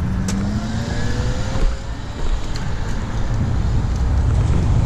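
Road traffic heard from a moving bicycle, with low wind rumble on the microphone; in the first couple of seconds a vehicle's engine rises in pitch as it pulls away.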